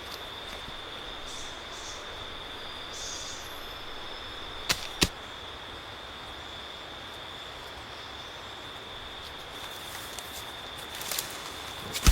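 A steady high-pitched insect drone over a forest background, broken by two sharp knocks close together about five seconds in and a few lighter clicks near the end.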